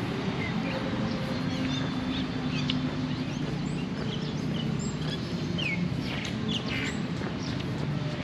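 Several small birds chirping in short, scattered calls and quick whistled glides, over a steady low hum and outdoor background noise.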